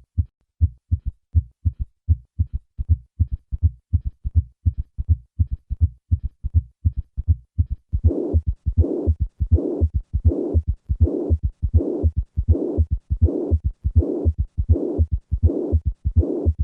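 Heart sounds of mitral regurgitation with added third and fourth heart sounds, beating steadily at roughly 80 a minute. About halfway through, the regurgitant murmur joins each beat as a noisy rush filling part of every cycle.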